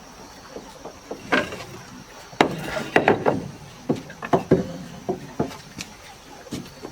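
Wooden boards knocking and clattering as lumber is handled, a run of irregular sharp knocks, busiest in the middle.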